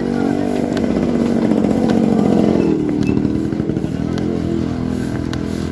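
CFMoto 300SR's single-cylinder engine running under way, its note climbing a little, then dropping about halfway through before holding steady.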